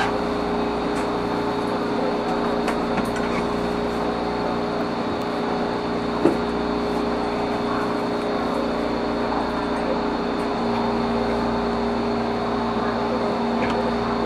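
MTR East Rail line train standing at a station: a steady hum of its onboard air-conditioning and auxiliary equipment, several held tones over a hiss, with a few faint clicks.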